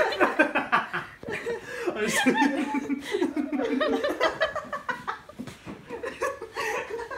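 A small group of people laughing together, with chuckles and snickers.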